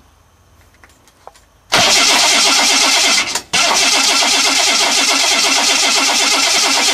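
Supercharged Ford V6 turned over on its starter without catching. The cranking begins about two seconds in, breaks off briefly, then carries on in a loud, even rhythm; the engine has no spark.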